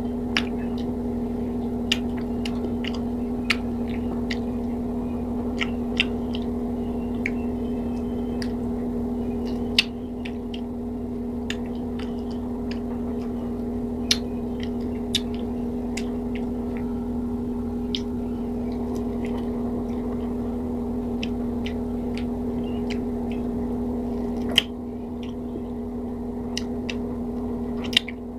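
Close-miked chewing and biting of fresh pineapple slices: irregular wet mouth clicks, a few louder than the rest, over a steady low hum.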